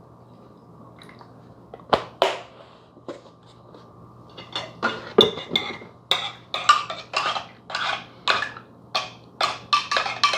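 Metal spoon stirring coffee in a large mug, clinking against the sides in a steady run of about two clinks a second from about halfway in, after a couple of knocks about two seconds in.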